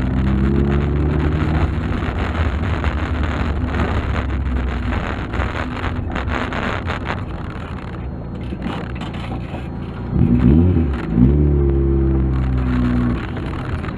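Volkswagen Golf Mk2 on the move, heard with steady road noise. The engine note falls early on, then rises sharply in two quick climbs about ten seconds in as the car accelerates, and settles again.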